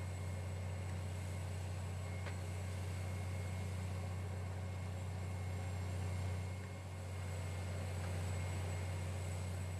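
Steady low engine drone of heavy road-construction machinery running, dipping briefly about six and a half seconds in.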